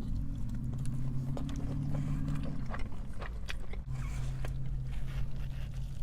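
Close-up chewing of a mouthful of burrito: repeated wet mouth clicks and smacks. Underneath runs a low steady hum that stops a little before halfway and comes back.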